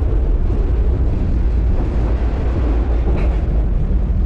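Freight train rolling, heard from aboard: a steady low rumble with wind buffeting the microphone.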